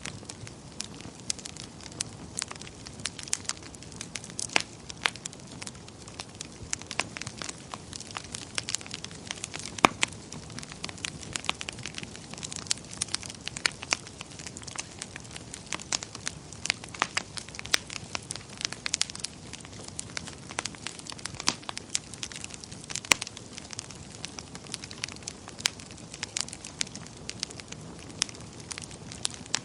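Wood fire crackling and popping in a fireplace: irregular sharp pops over a steady low hiss of burning logs.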